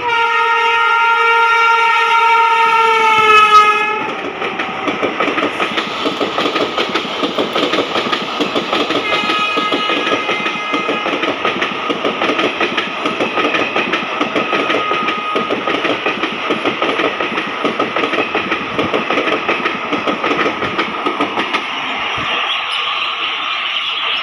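An electric locomotive's horn sounds for about four seconds, dipping in pitch as it ends, as an express passenger train passes. The train's wheels then clatter over the rail joints in a rapid, even clickety-clack for the rest of the passage.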